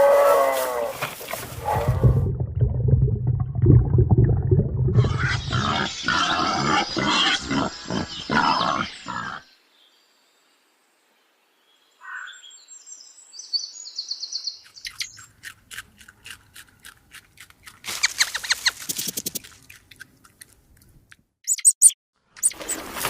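A run of different animal sounds, one after another, broken by a short silence near the middle: first a low rumbling call and a noisy stretch, then high bird chirps, then quick clicking sounds.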